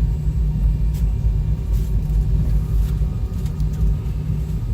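Steady low rumble of a jet airliner's cabin in flight, with a faint steady hum above it.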